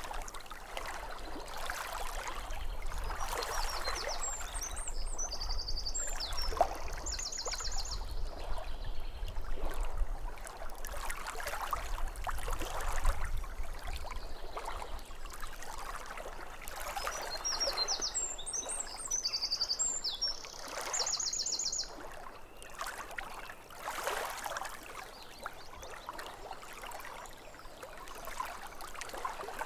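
Lake water lapping at the shore in uneven swells, with a songbird singing two short bursts of rapid trilled notes, about a sixth of the way in and again past halfway.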